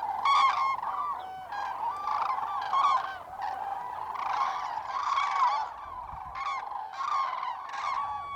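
A flock of common cranes calling: many overlapping trumpeting calls, with single calls standing out about once or twice a second over a steady chorus.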